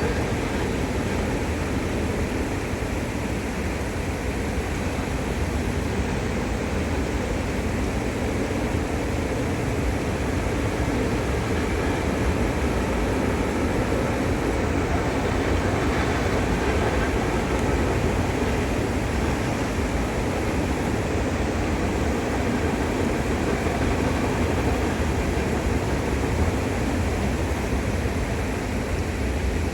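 Train rolling over a railway bridge: a steady, unbroken rumble of wheels on rails.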